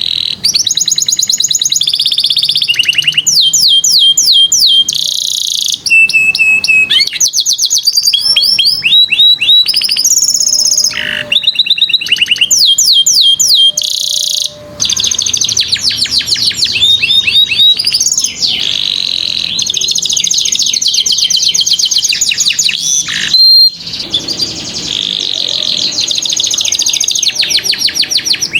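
Domestic canary singing a long, loud song of fast rolled trills, switching to a new trill every second or two, with one short break near the end.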